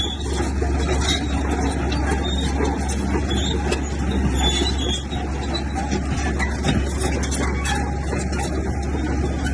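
Komatsu bulldozer's diesel engine running steadily with a heavy low rumble, and a constant rapid clatter from the machine and its tracks as it works.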